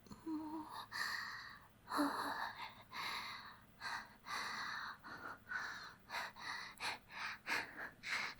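A woman's breathy gasps and panting breaths, coming quicker and shorter in the last couple of seconds.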